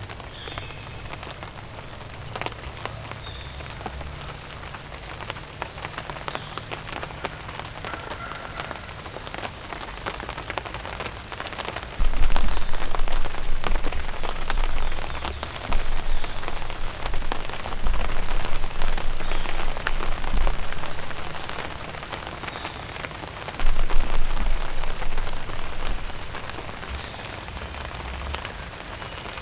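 Rain pattering steadily, many fine drops ticking. From about halfway through come loud, low rumbling stretches lasting several seconds, then it settles back to the patter near the end.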